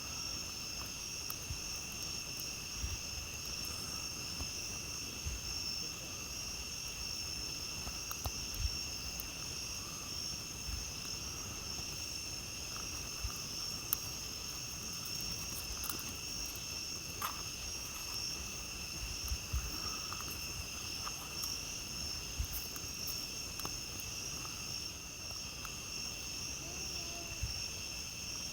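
A steady chorus of night insects keeps up a continuous high-pitched trill. Over it a campfire crackles with scattered sharp pops and soft low thumps.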